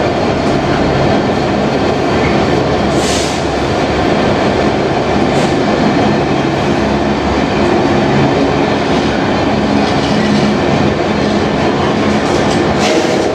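Container freight train's loaded flat wagons rolling past close by at speed: a steady, loud rumble of steel wheels on rail, with a brief high-pitched sound about three seconds in and again near the end.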